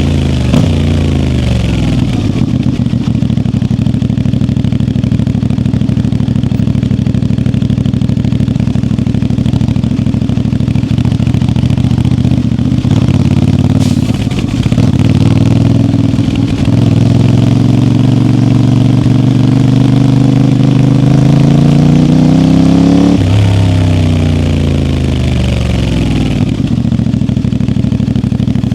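CFMoto 450MT parallel-twin engine under way. Its pitch holds steady for a long stretch, then climbs for several seconds as the bike accelerates, drops sharply at a gear change about 23 seconds in, and rises again near the end.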